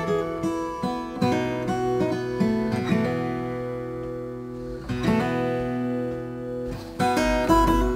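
Background music: an acoustic guitar picking notes and strumming chords, with a new chord struck every few seconds.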